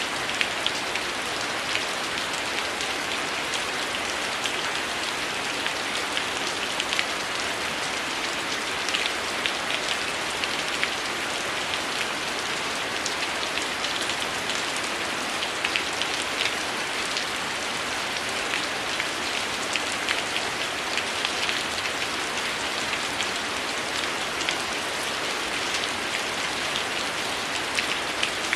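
Heavy rain falling steadily in a dense, even hiss, with many small sharp crackles and pops of a wood fire scattered over it.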